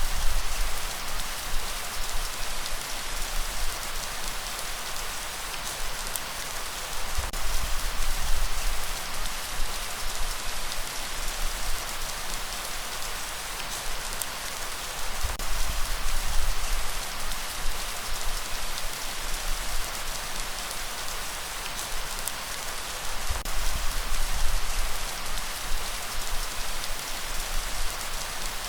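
Steady heavy rainfall, a dense even hiss, with a deep low rumble that swells and fades about every seven or eight seconds.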